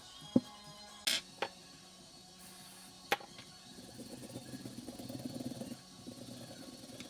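Metal gun parts being handled: four sharp clicks and knocks, the second a short rattle, then about two seconds of rough scraping.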